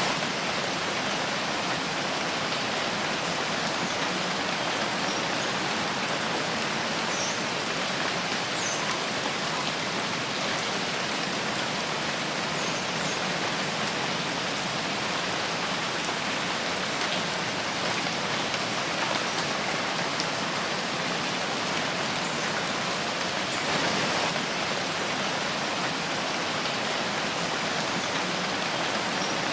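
Steady rain falling in a forest, a dense, even hiss of drops, briefly a little louder about three-quarters of the way through.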